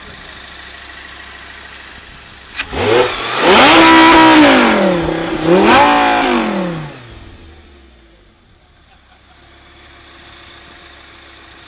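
Lamborghini Gallardo LP560's V10 engine accelerating hard: revs climb, drop at a gear change, climb again, then the sound falls away and fades as the car pulls away.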